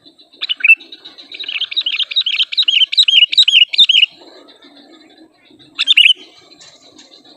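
Sooty-headed bulbul calling: a short call, then a fast run of bright chirping notes, about four a second, for nearly three seconds, and one more short call near the end.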